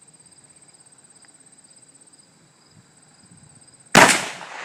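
Crickets chirping steadily, then about four seconds in a single shot from a Mosin–Nagant bolt-action rifle in 7.62×54R: a sharp crack with a trailing echo.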